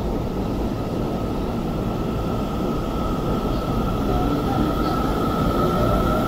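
Seibu 30000 series electric commuter train moving away from the platform: a continuous rumble of wheels and running gear with a steady high electric whine that edges slightly upward as it gathers speed.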